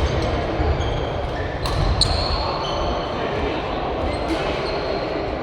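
Badminton rally: sharp racket strikes on the shuttlecock, loudest about two seconds in and again near four seconds, with short high-pitched shoe squeaks on the court floor, over a steady murmur of voices.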